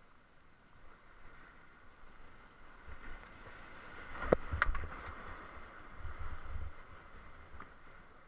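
Rushing whitewater creek hissing steadily, with a sharp knock about halfway through and low rumbling bumps around it.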